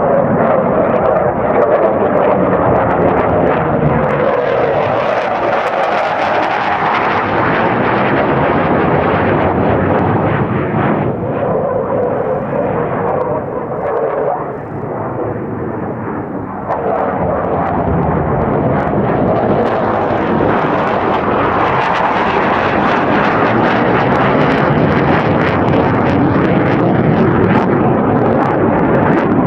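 Jet roar of an F-4 Phantom's twin General Electric J79 turbojets on a display pass. The roar eases off briefly around the middle, then builds up loud again as the jet comes past.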